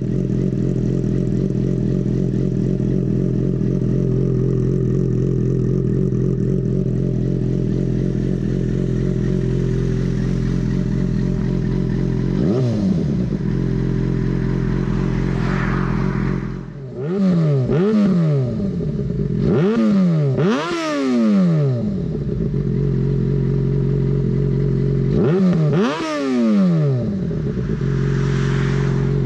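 Yamaha FZ6N's inline-four engine, fitted with a Two Brothers aftermarket exhaust, idling steadily. It is then revved: one short blip at about 12 seconds, then several quick throttle blips in the second half, each rising and dropping back to idle.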